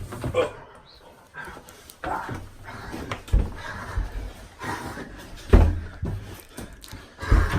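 A person growling and snarling in imitation of a zombie, with several heavy thumps, the loudest about two-thirds of the way through and again near the end.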